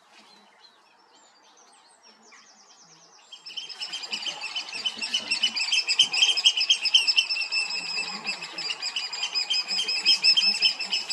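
Oystercatchers piping: a loud, rapid, shrill run of calls that starts about three seconds in and carries on without a break.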